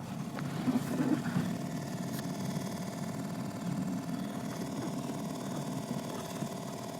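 Toyota Corolla 16-valve EFI engine sounding steadily, a continuous mechanical noise with a steady whine over it.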